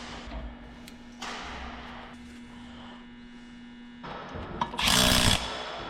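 Power tool run in a loud burst about four and a half seconds in, over a steady low hum and faint handling noise while a corn planter row unit is taken apart.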